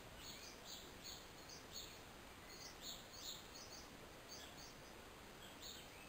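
Small bird giving a quick series of faint, short, high chirps, about two or three a second with a brief pause midway, over a low background hiss.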